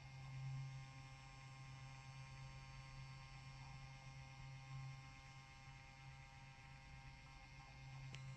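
Faint steady low electrical hum, close to silence.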